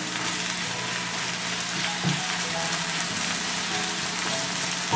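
Sliced long green onion and garlic sizzling steadily in olive oil in a frying pan over low-medium heat, being sautéed until they wilt. The spatula knocks against the pan about two seconds in and again near the end.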